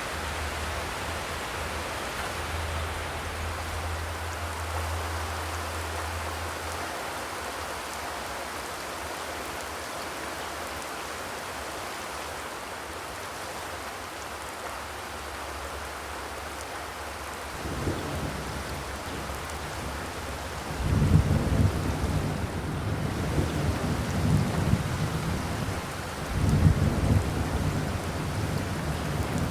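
Steady rain drumming on a zinc roof, an even hiss of drops. About two-thirds of the way through, deep low rumbling sets in and comes in loud bouts through the rest.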